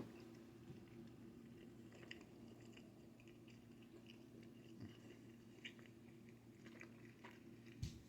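Faint close-up chewing of food, with soft scattered mouth clicks now and then, over a steady low hum.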